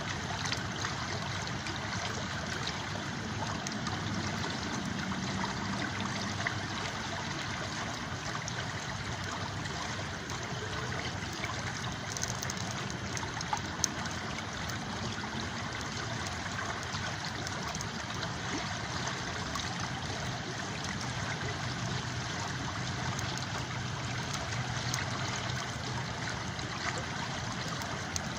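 Steady flowing and trickling of a river stream, with a few sharp clicks near the middle.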